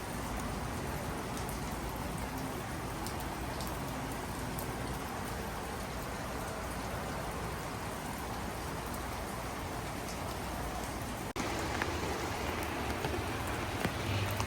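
Steady rain falling, with scattered ticks of individual drops. The sound drops out for an instant about eleven seconds in and comes back slightly louder.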